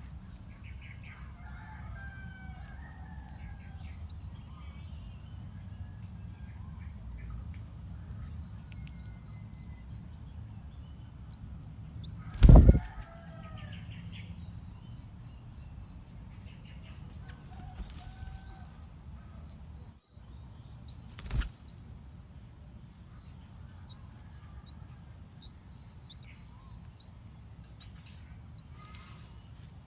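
Steady, high insect trilling with scattered short bird chirps and calls over a low rumble. A loud thump comes about twelve seconds in, and a smaller knock comes a little after twenty seconds.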